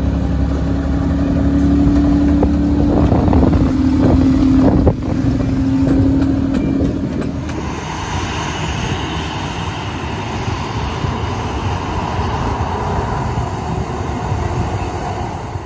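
A miniature railway locomotive running past with a low rumble, a steady drone and some clattering. About halfway through this gives way to the even roar and whine of a jet airliner's engines as it taxis.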